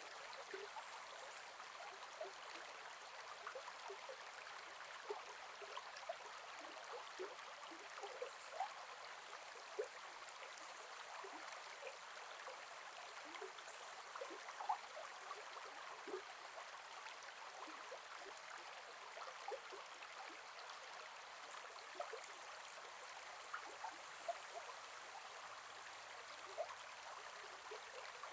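Gentle forest river flowing in a steady rush of water, with frequent small gurgles and plops over stones.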